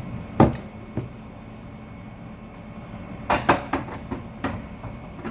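Jars and containers being set down on refrigerator shelves: a loud knock about half a second in, a light click, then a quick cluster of knocks and clatter past the middle, with a few lighter taps after.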